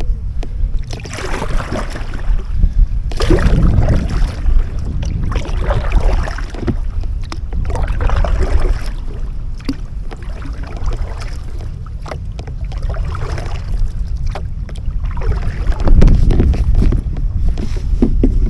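Kayak paddle strokes splashing in the water every couple of seconds, over a heavy low rumble of strong wind buffeting the microphone.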